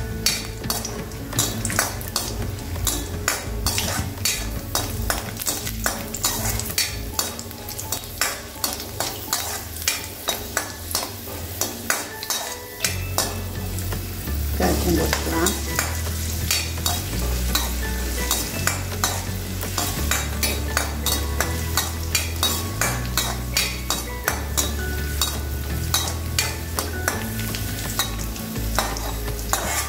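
A metal spoon stirs and scrapes cashews and raisins frying in ghee and oil in a stainless steel kadai. The fat sizzles steadily, and the spoon clinks against the steel many times.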